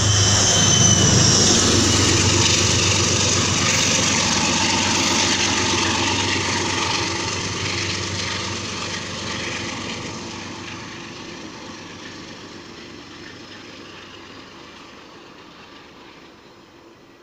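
MTA commuter train departing, its coaches and rear locomotive rumbling on the rails, with a brief high wheel squeal near the start. The sound fades steadily as the train recedes down the track.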